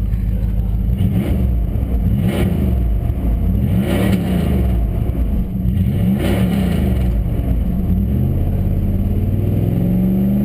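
1999 Dodge Durango's 5.9 (360) V8 running through a straight-piped exhaust just after a cold start. It idles with several short revs that rise and fall, and it climbs again near the end.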